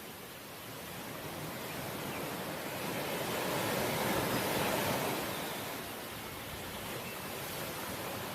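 Sea waves breaking on the shore: a steady wash of surf that swells to a peak about four to five seconds in, then dies back.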